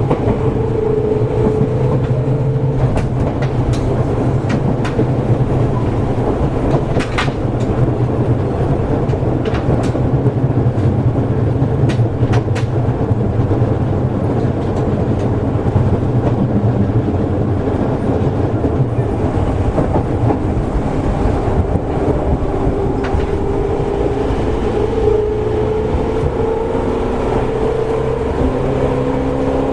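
Running sound inside a Seibu 101-series electric motor car, with the low-pitched traction motors under the floor. The motor whine rises briefly and then cuts off as the train coasts, with a steady low rumble and scattered clicks of wheels over rail joints. Near the end the motor whine comes back and rises in pitch as the train powers again.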